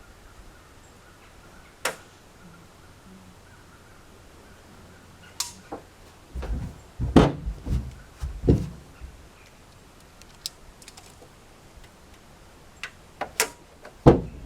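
Scattered knocks and clanks of tools and metal being handled, with a cluster of heavier thumps in the middle and a few sharp clanks near the end.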